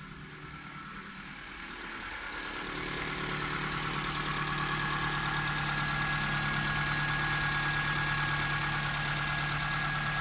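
Toyota 3S inline-four engine idling steadily, growing louder over the first few seconds and then running evenly at a constant pitch, as in a test run of a used engine.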